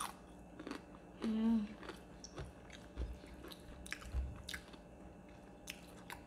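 Close-up chewing and biting of crispy fried chicken, with scattered short crunches and crackles from the breading. About a second in there is a brief hummed 'mm' from one of the eaters.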